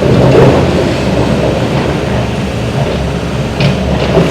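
Heavy demolition excavator running steadily with a loud, low engine rumble as it works the debris pile.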